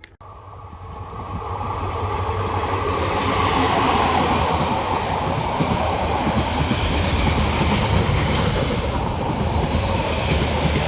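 A train passing close by on the rails. Its noise builds over the first two seconds, then stays steady and loud.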